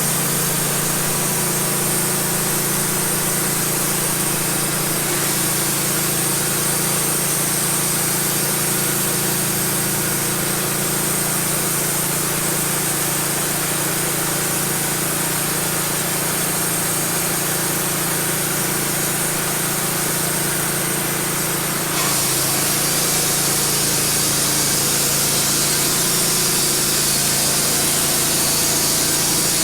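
Wood-Mizer LT15 band sawmill running steadily, its engine driving the band blade through a cedar log. The sound steps up slightly and gets hissier about 22 seconds in.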